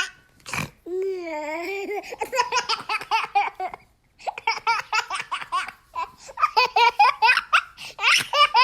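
A young child laughing in quick repeated bursts, high-pitched, after a short wavering vocal sound near the start.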